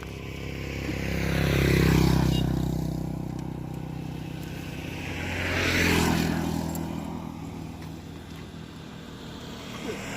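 Motor vehicles passing close by on a road, one about two seconds in and another about six seconds in, each engine sound swelling as it approaches and fading as it goes.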